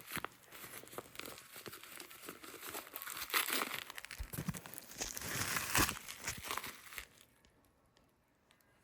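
Packaging being crinkled and pulled open by hand to unwrap a fragrance bottle, in irregular bursts of crackling and tearing that stop about seven seconds in.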